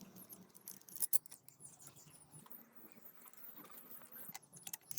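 Faint, scattered clicks and light scraping of metal parts being handled while a new water-heater heating element is fitted into place, with one sharper click about a second in.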